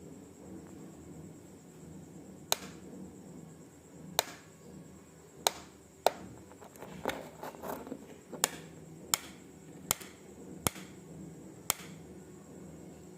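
An insect making sharp single 'tik' clicks: about nine of them at uneven gaps of half a second to two seconds. About seven seconds in there is a short patch of softer, quicker clicking and rustling.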